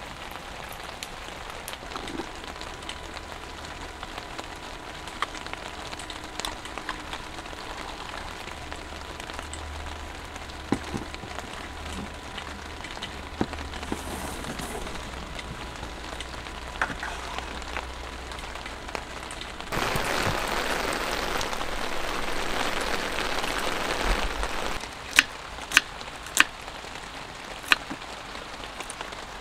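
Steady rain pattering, with scattered crackles from a fireplace video playing on a TV. About five seconds past the middle a louder hiss swells, then cuts off. Near the end a knife strikes a wooden cutting board several times as an onion is chopped.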